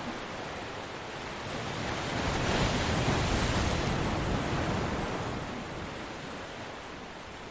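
Ocean waves on a beach: a wave breaks, its hiss swelling about two seconds in and peaking near three seconds, then slowly washing out over the following seconds.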